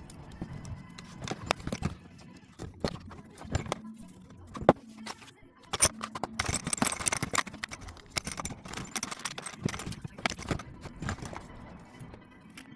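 Loose metal parts of a dismantled vice being handled on a bench: irregular clinks and knocks, with a scratchy rustling stretch in the middle.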